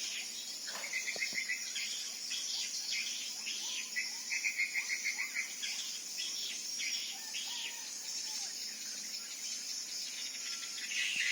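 Small birds chirping in quick, repeated trills and short whistled notes over a steady high buzz of insects.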